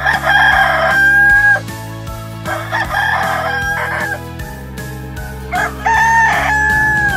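Rooster crowing three times, each cock-a-doodle-doo lasting about a second and a half and ending in a long held note, over soft background music with a steady beat.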